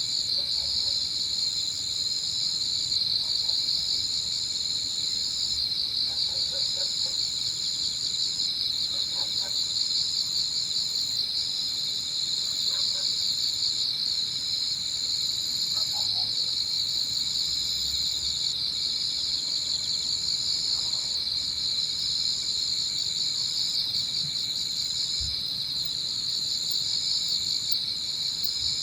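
Early-autumn evening chorus of singing insects: a dense, steady high trilling, with a second, higher insect note that breaks off briefly every few seconds. A few faint short calls sound in the background now and then.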